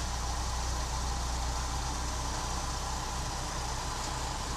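A vehicle engine idling steadily under a constant hiss, with no change or distinct knocks.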